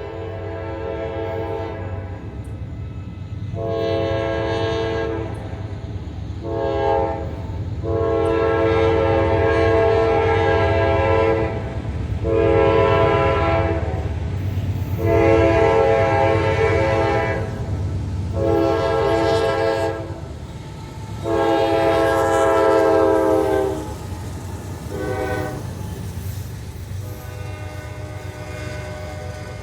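Diesel locomotive horn on a Norfolk Southern intermodal freight train blowing about nine blasts, most long and a few short. Under the horn runs the steady low rumble of the train passing at speed.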